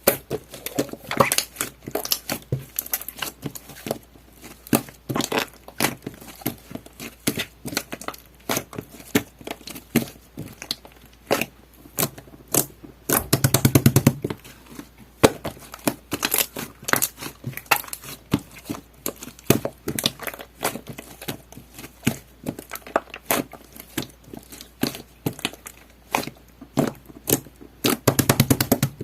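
Jelly-textured slime being squeezed and poked by hand, giving rapid irregular clicks and crackling pops. Denser runs of clicks come about halfway through and again near the end.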